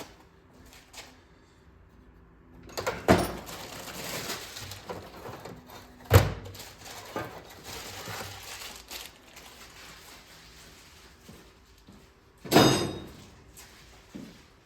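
Handling noises at a workbench as an engine is taken apart: a knock about three seconds in, a sharp, loud knock about six seconds in with rustling between, and a longer clatter near the end.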